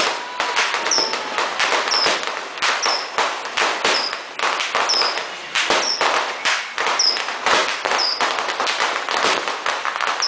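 Fireworks going off: a dense run of bangs and crackling pops from aerial shots bursting overhead, with a short high chirp about once a second.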